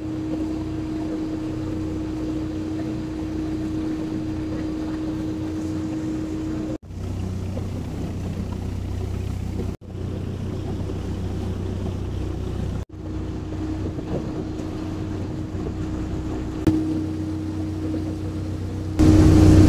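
Steady drone of a large passenger riverboat's engine heard from on board: a low, even hum with a steady tone over a haze of wind and water noise. It breaks off briefly three times and gets louder just before the end.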